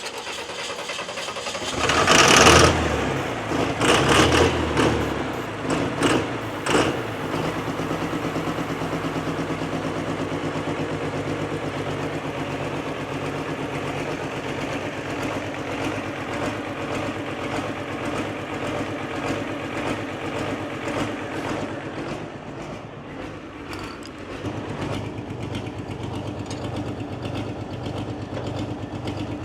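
12-valve Cummins diesel of a pulling tractor running, surging loudly several times in the first seven seconds, then settling into a steady run.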